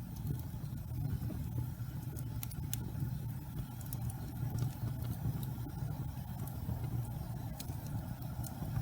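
Wood fire burning in a fireplace: a steady low rumble with sparse, irregular crackles and pops from the burning logs.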